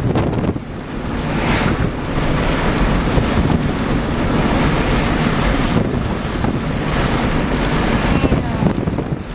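Strong storm wind buffeting the microphone: a loud, steady rushing with heavy low rumble that dips briefly about half a second in.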